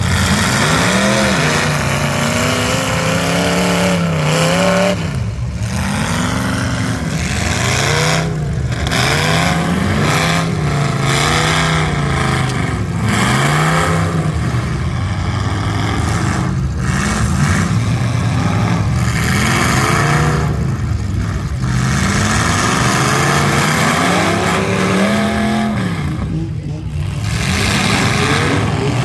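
Demolition derby cars' engines revving hard, the pitch climbing and dropping again and again as they accelerate and back off, over the steady running of other engines.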